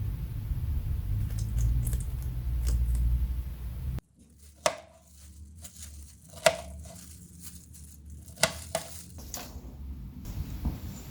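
Rabbit eating pineapple. A steady low rumble for about four seconds gives way suddenly to a few sharp crunching bites a second or two apart.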